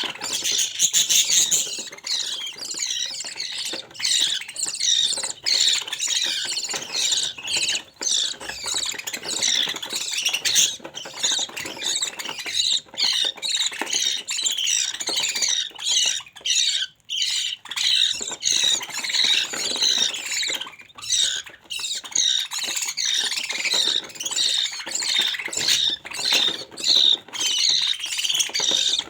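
Budgerigar chicks calling in a continuous, rapid chatter of short, raspy squawks, with one brief lull a little past the middle.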